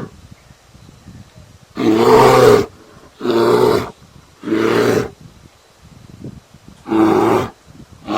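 An animal calling again and again: a string of short, pitched calls, each under a second long, coming about every one to two seconds.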